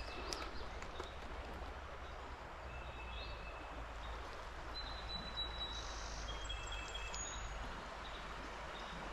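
Steady rush of flowing stream water, with a few faint, short, high bird calls now and then.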